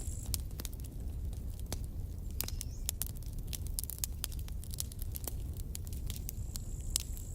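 Campfire burning, with dense irregular snaps and pops of wood over a low steady rumble of flame. A thin high steady tone comes in near the end.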